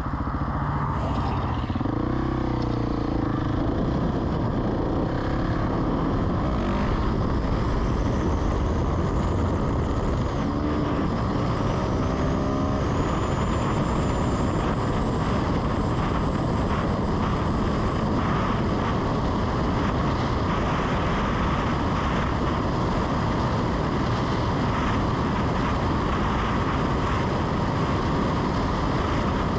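Husqvarna 701 Supermoto's single-cylinder four-stroke engine through a Leo Vince Nero stainless slip-on exhaust, ridden at a steady clip under a constant dense rush. The engine note rises through the revs about two seconds in and again from about ten to thirteen seconds in.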